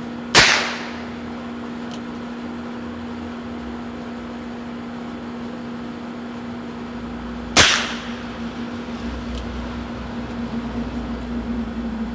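Two shots from a Heritage Rough Rider single-action .22 revolver, about seven seconds apart: one just after the start and one about two-thirds of the way through, each a sharp crack with a short tail.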